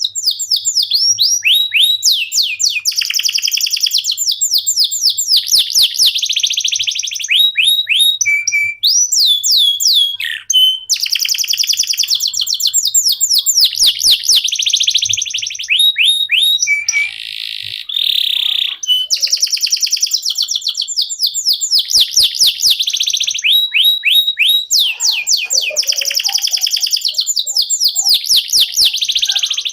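Male canary singing a long, continuous song of rapid trills, each trill a fast run of falling notes, with a brief buzzing phrase about two-thirds of the way through.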